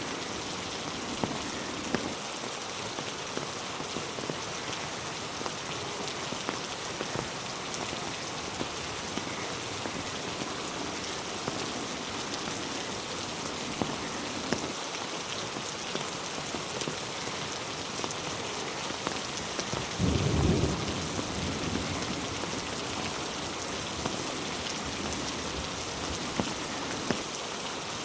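Steady rain falling on a road and trees, with individual drops ticking now and then. About twenty seconds in, a short low rumble of thunder swells and fades over a couple of seconds.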